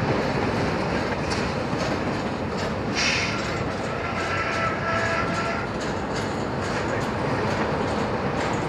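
Freight train cars rolling past, their wheels clicking steadily over the rail joints, with a faint high wheel squeal about four to six seconds in.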